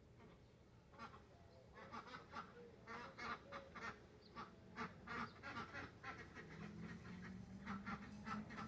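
Pet birds calling, a quick irregular run of short, fairly faint calls that grows busier after about a second.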